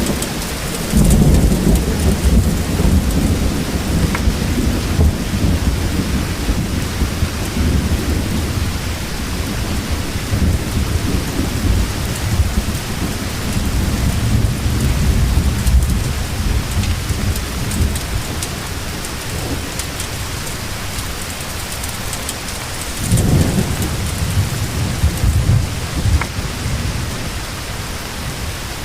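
Steady heavy rain falling, with rolling thunder rumbling low for much of the first half and a second, shorter roll a little after twenty seconds in.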